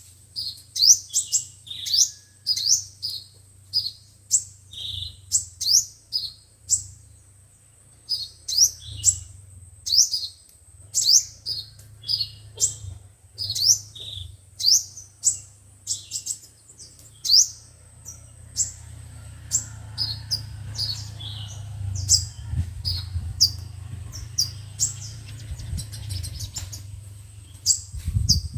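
Sunbirds calling: a rapid run of sharp, high chirps, each sliding down in pitch, two or three a second. Under them is a low steady hum that grows louder in the last few seconds.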